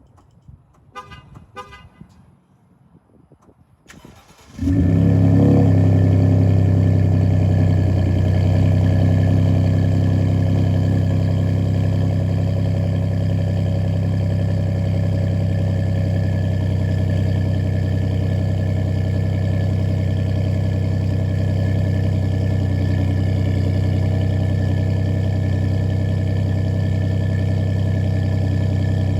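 Two short chirps, then about four and a half seconds in a 2018 Ford F-150's 2.7 EcoBoost twin-turbo V6 starts with a brief flare and settles into a steady idle. It is heard through an MBRP 2.5-inch dual rear-exit exhaust with a straight-through muffler and the resonator deleted.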